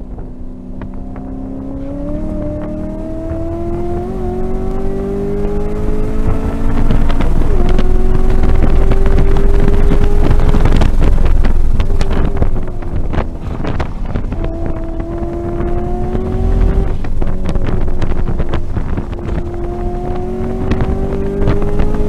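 2018 Camaro SS 1LE's 6.2-litre V8 heard from inside the cabin under hard throttle on track, its note climbing steadily in pitch and dropping back several times at gear changes and lifts. It gets louder over the first seven seconds or so, with wind and road noise underneath.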